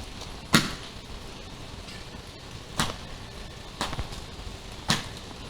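Four sharp knocks at irregular spacing, the first the loudest, made to set off the sound-reactive music mode of an LED light strip.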